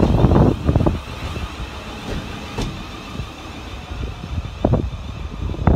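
Train rumbling along the track at a station platform, loud at first and easing off about a second in, then rising again near the end, with wind buffeting the microphone.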